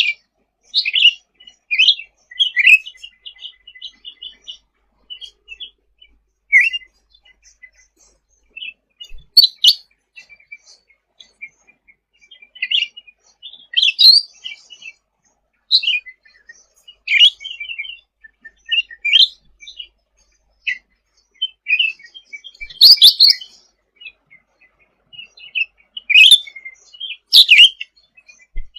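Cucak ranting songbird singing busily: a run of short, varied chirps and quick trills, high-pitched, with a few louder sharp notes scattered through.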